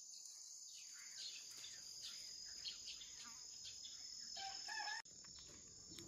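Faint bird calls over a steady high-pitched insect drone, with a longer stepped call about four and a half seconds in.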